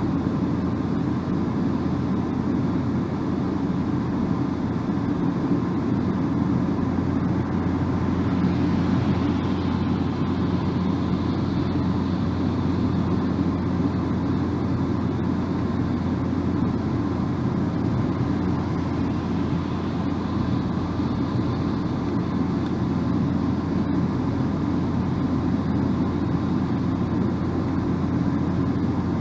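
A car driving at steady speed, heard from inside the cabin: a constant low rumble of tyre and road noise with an even hum underneath.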